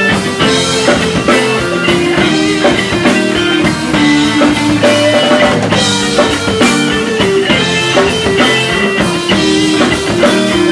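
Instrumental rock music: electric guitar and drum kit playing a steady beat, with no singing.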